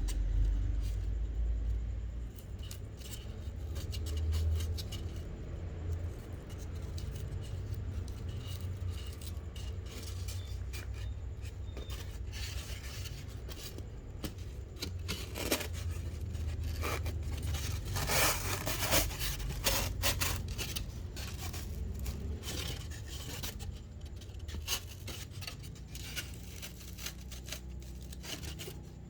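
Irregular scraping and clicking of hands working on material, busiest around the middle, over a low rumble.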